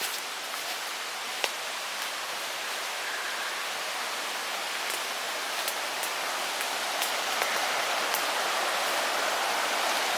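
Running water from a mountain stream or spring, a steady rushing that slowly grows louder, with a few sharp clicks on top.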